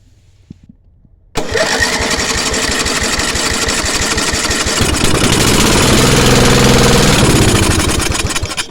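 10 hp Briggs and Stratton petrol engine catches suddenly about a second and a half in, runs for about seven seconds, then dies away near the end. It only runs on petrol poured down through the air filter and then cuts out, which the owner takes for a carburettor fault, the engine not getting enough petrol.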